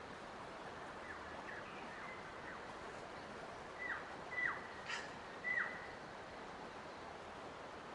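Natural ambience: a steady background hiss, with a bird giving a few short calls that slur downward. Three louder calls come close together around the middle, after fainter ones.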